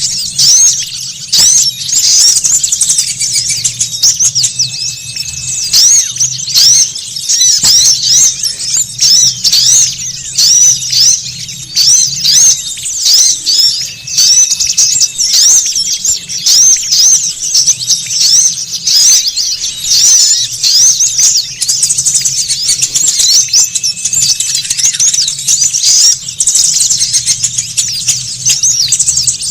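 Bird-luring call track: a dense, unbroken chorus of many small songbirds giving rapid, high-pitched chirps and twitters, with a faint low hum underneath.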